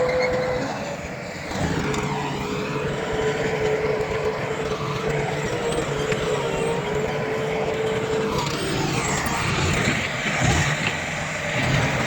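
Heavy diesel earthmoving machinery running: a steady engine rumble, with a high, steady whine over it that stops about two-thirds of the way through.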